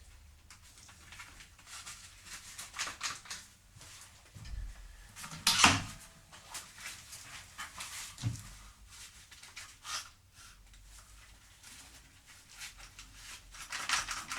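Scattered light clicks and knocks of small objects being handled, with a sharper knock about five and a half seconds in and another just past eight seconds.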